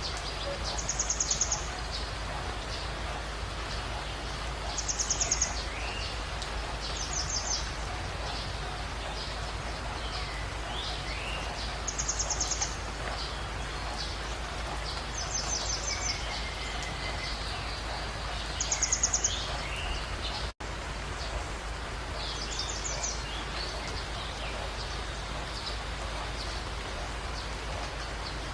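Jungle birds calling over a steady background hiss. One bird repeats a short, high, rapid trill every three to four seconds, while others give brief lower whistled glides in between. The sound cuts out for an instant about two-thirds of the way through.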